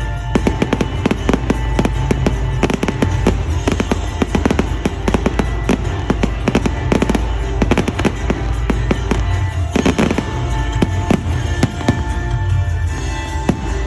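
Fireworks display: a dense, continuous stream of rapid bangs and crackles, with music playing alongside.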